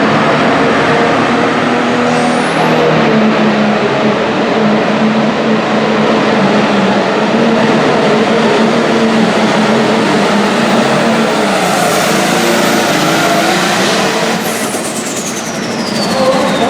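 Turbocharged diesel engine of a light-limited super stock pulling tractor running flat out under load. A high turbo whistle climbs about two seconds in. Near the end the engine drops off and the whistle falls away.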